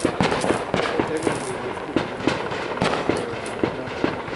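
Aerial consumer fireworks going off in quick succession: a dense, irregular string of sharp bangs, several a second, over a steady crackle.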